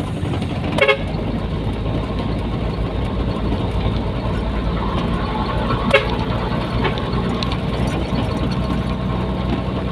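Nissan Diesel container truck's diesel engine running steadily on the move, a low drone throughout. Two brief sharp sounds cut through it, one about a second in and one near six seconds.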